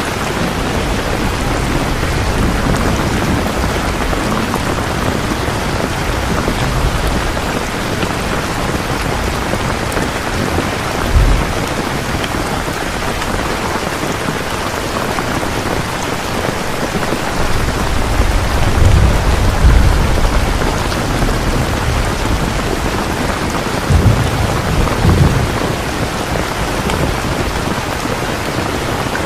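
Steady heavy rain falling, with low rumbles of thunder: a short one about eleven seconds in, a longer rolling one a little past the middle, and another shortly after.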